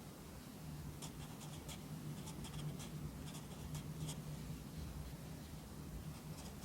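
Pencil writing Korean characters on paper: short, quick scratching strokes in clusters for the first few seconds, a pause, then more strokes near the end.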